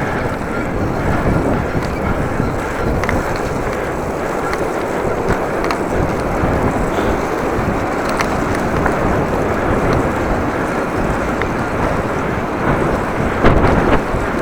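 Heavy gusting wind buffeting the microphone of a cyclist, a steady dense rumble, over the rolling of the bicycle on rough ground with a few faint clicks.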